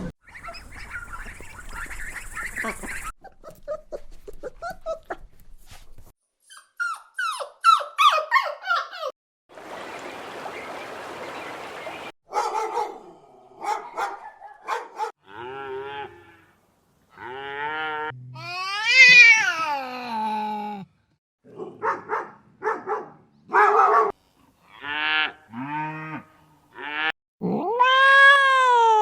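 A string of different animal calls, one short clip after another. About seven seconds in come quick high peeps, then a few seconds of even hiss, then a run of pitched calls of the kind made by dogs, cats and cattle. Near the end comes one long call that rises and then falls.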